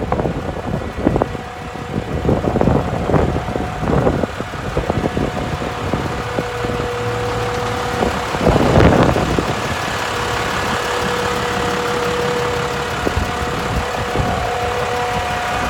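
Truck's diesel engine running with a steady hydraulic whine as the chipper dump bed is worked. Wind buffets the microphone in gusts, loudest about halfway through.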